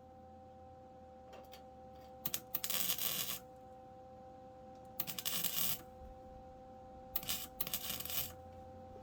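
Three short bursts of rapid metallic clicking and clinking from hand tools at work on the car body, each about a second long, over a steady two-note hum.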